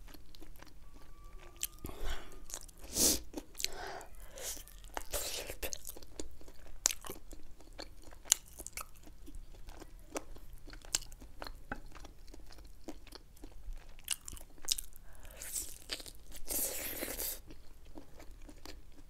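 Close-mic'd eating: biting and chewing pieces of sauced fried chicken, with crunches and many small mouth clicks, and a couple of louder crunchy bites, about three seconds in and again near the end.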